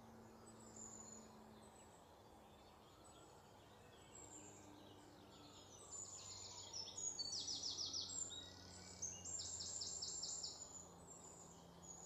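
Faint songbird calls: quick, high-pitched trills and chirps that start about halfway through and come in several bursts.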